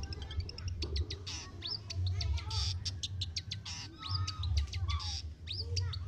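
Long-tailed shrike (cendet) singing: a fast, scratchy jumble of short chirps and quick upward-sweeping notes, with a low rumble underneath.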